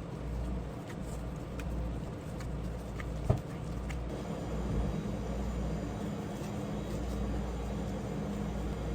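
Steady low machine hum with scattered light clicks, and one sharp knock about three seconds in; a second, higher hum joins about halfway through.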